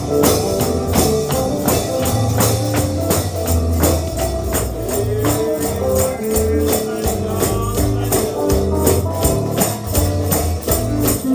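Instrumental stretch of an upbeat bluegrass gospel song: a tambourine beats a fast, steady rhythm over bass notes and a melody line.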